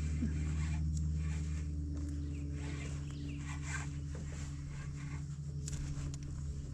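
Small motor humming steadily at an even pitch, with brief faint rustles above it.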